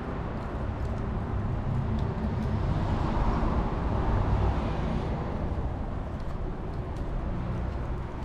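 A vehicle passing by: a noisy rush that swells about two to three seconds in and fades again, over a steady outdoor rumble, with a few faint sharp ticks.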